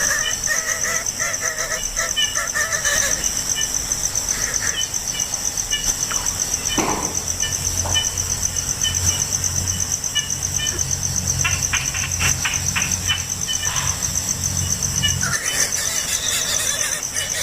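Steady, fast-pulsing insect trilling like a cricket chorus, with short bird chirps and calls scattered over it and a low hum in the middle stretch.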